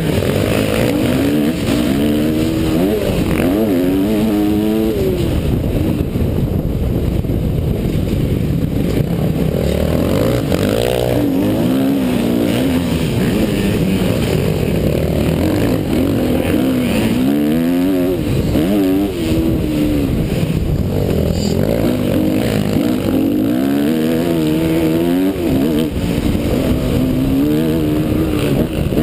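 Motocross motorcycle engine running hard, its pitch climbing and dropping over and over as it accelerates, shifts and backs off, over a steady rumble of noise.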